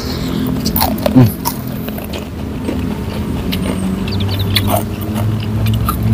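Close-miked eating sounds: chewing, lip smacks and wet mouth clicks as fried dried fish and raw greens are eaten by hand, over a low steady hum.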